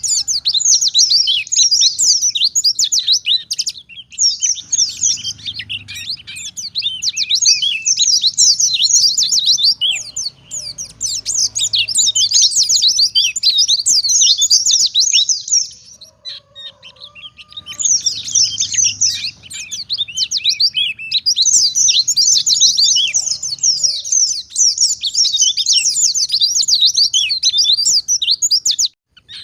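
White-eye (pleci) singing a fast, high, twittering song in long unbroken runs, with two short pauses, one about four seconds in and a longer one just past the middle.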